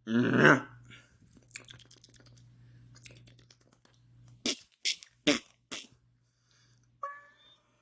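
A man imitating bird calls with his mouth: a short loud vocal squawk at the start, then faint scattered mouth clicks, four sharp pops in quick succession, and a brief pitched squeak near the end.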